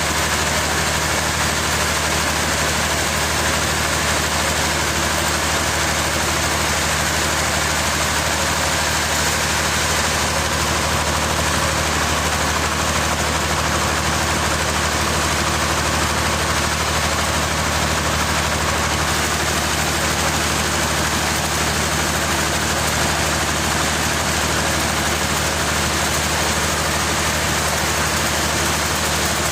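A large engine running steadily at constant speed, with no change in pitch or load.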